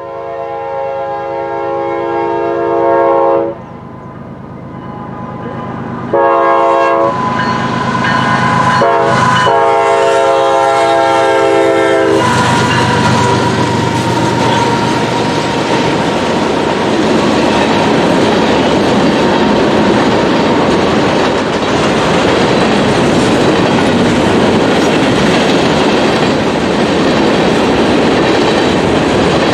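A freight train's locomotive horn sounds several blasts for the grade crossing, the last a long one that ends about twelve seconds in. Then the train passes close by: the lead locomotives' engines and a steady wheel clatter of freight cars over the rails.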